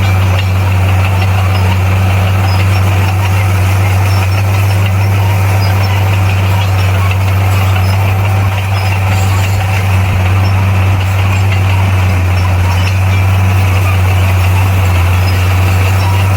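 Bulldozer's diesel engine running steadily: a low, even drone with no breaks or changes in pitch.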